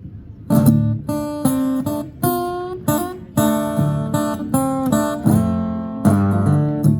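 Acoustic guitar strumming chords, starting about half a second in, with each chord struck sharply and left to ring between strokes.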